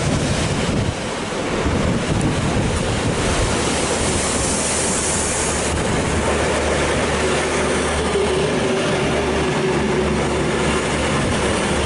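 Storm waves crashing against a passing train on a sea-wall railway, with heavy wind rush on the microphone; a louder surge of spray hiss comes about four seconds in.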